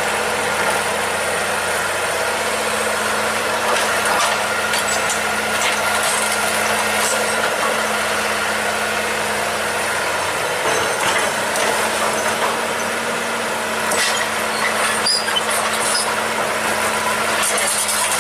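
Old excavator's diesel engine running steadily, with a steady high whine over it and scattered knocks and clatter.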